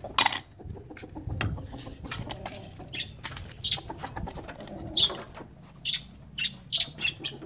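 Short, high bird chirps repeating irregularly from about three seconds in, with a sharp knock right at the start.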